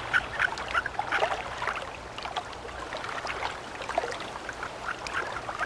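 Mountain stream running, with a run of short, high squeaky calls from harlequin ducks, several a second at first, thinning out in the middle.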